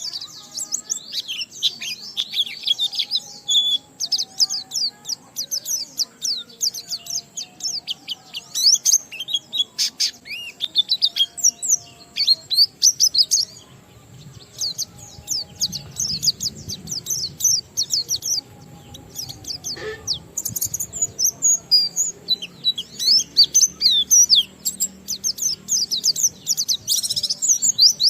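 White-eye (pleci) singing a long, continuous run of rapid high chirps and twitters in the 'ngalas' style, breaking off briefly about halfway and again about two-thirds through.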